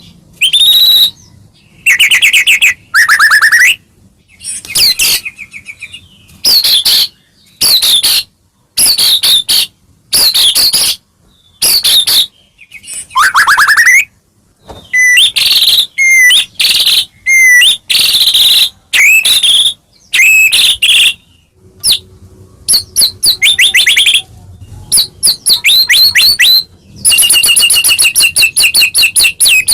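White-rumped shama singing in full, continuous song (gacor): loud, varied phrases of whistles, glides and trills with short pauses between them, ending in a long run of rapidly repeated notes.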